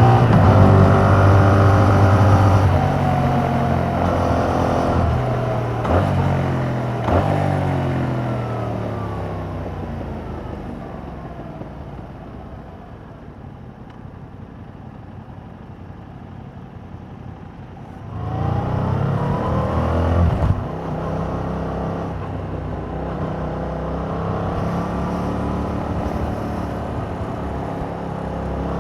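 A Yamaha MT-07's parallel-twin engine through its stock exhaust. It pulls hard with quick upshifts in the first seven seconds, then winds down and runs quietly off the throttle. About eighteen seconds in it accelerates hard again with rising revs, shifts up once and settles into a steady cruise.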